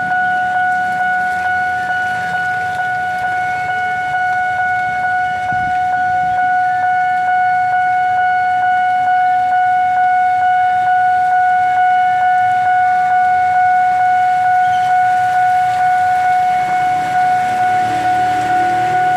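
Railway level-crossing warning alarm sounding a loud, steady electronic tone without a break.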